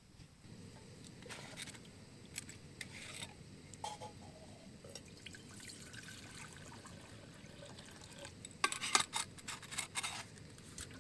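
Liquid pouring and camp cookware being handled over a steady low rush, with a quick run of sharp clicks and clinks near the end.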